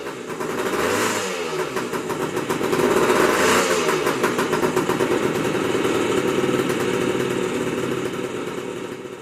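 Motorcycle engine revved up and down twice, then held at a steady fast run that fades near the end.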